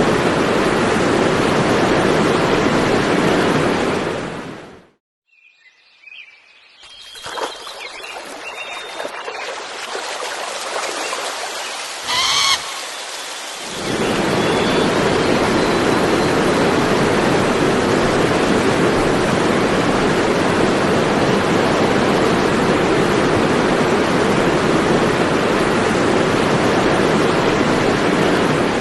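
Waterfall pouring, a loud steady rush of falling water. After a few seconds it cuts off; a quieter stretch follows with a few bird calls, and then the full rush of the falls returns.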